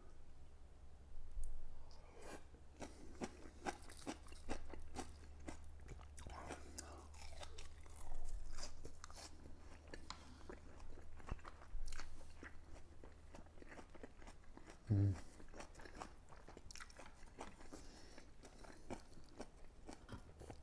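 A person chewing and eating food close to the microphone: a string of small crunches and wet mouth clicks, with a short low hum from the eater about fifteen seconds in.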